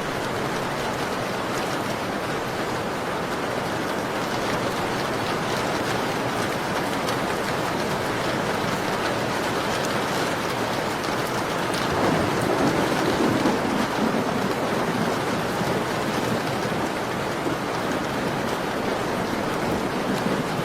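Steady rain pattering on a window, an even hiss with scattered drop ticks. About twelve seconds in, the noise swells and deepens for a few seconds before settling back.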